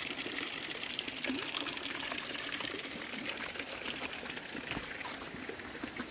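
Wood bonfire burning, with a steady fizzing and many small rapid crackles and pops from the logs.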